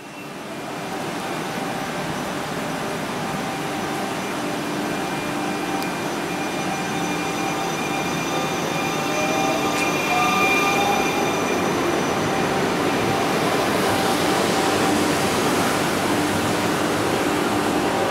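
Trenitalia electric Minuetto regional multiple unit at a platform, running with a steady mechanical hum and a few steady tones from its equipment. About nine seconds in a whine rises in pitch, and the train noise grows louder over the last few seconds as the unit begins to move off.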